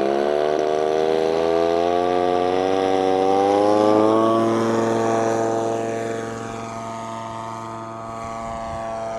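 Propeller and motor of a large radio-controlled model racer plane throttling up for its takeoff run. The pitch rises for about four seconds, then holds steady as the sound grows fainter.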